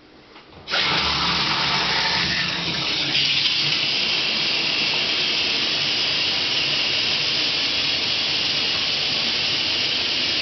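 Newly installed low-flow dual shower head spraying water: it comes on suddenly under a second in and then runs as a steady, strong spray.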